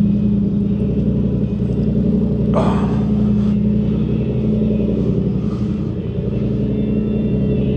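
Motorcycle engine running steadily at low revs, its pitch holding even throughout, with a brief louder rush about two and a half seconds in.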